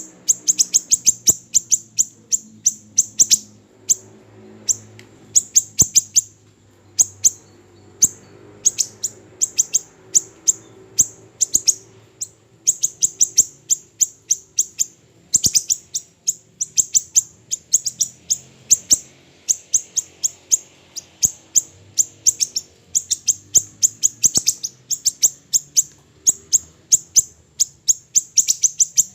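Small siri-siri bird calling: rapid runs of sharp, high chirps, each run lasting about a second, repeated with short gaps between them.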